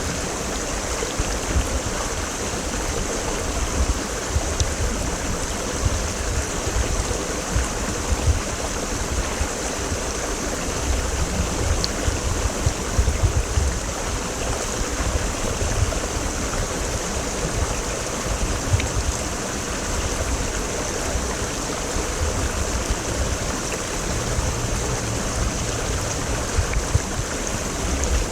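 Creek water flowing steadily, a continuous rushing noise with an uneven low rumble underneath.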